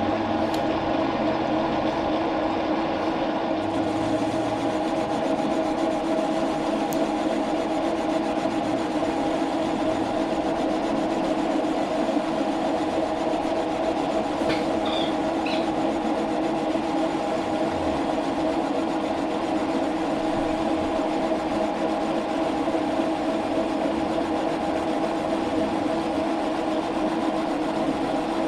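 Metal lathe running steadily, turning down a thread insert, with a constant machine hum made of several steady tones.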